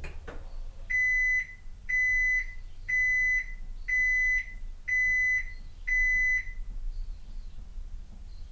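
Toshiba AW-7D9 washing machine's end-of-cycle signal: six even, high-pitched beeps about a second apart, marking that the spin has finished. A short click comes just before the beeps.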